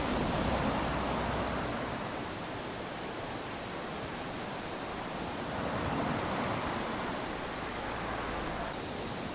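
Small waves lapping onto a sandy beach: a steady wash of surf that swells twice, once at the start and again about six seconds in.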